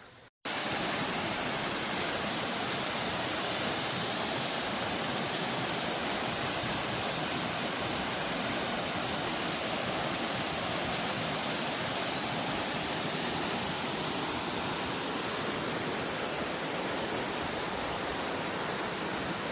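Waterfall: a steady, even rush of falling water that cuts in abruptly about half a second in.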